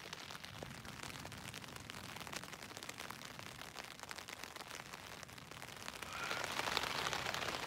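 Rain pattering on a tent's flysheet, heard from inside the tent: a dense, steady patter of drops that grows louder about six seconds in.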